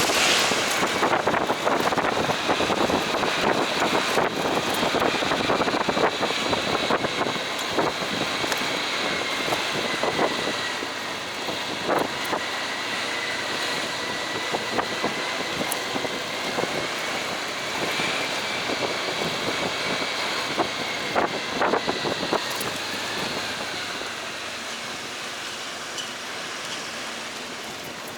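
Motorcycle riding, with road and wind noise on the microphone and a thin, steady high whine. The noise eases off a little near the end.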